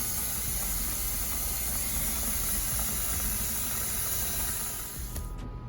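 Steady hissing of food cooking, over soft background music; the hiss cuts off about five seconds in.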